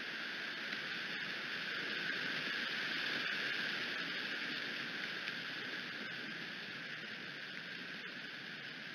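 Steady rain falling on and around the bald eagle nest, picked up by the nest camera's microphone as an even hiss that swells a little a couple of seconds in, with a few faint ticks of drops.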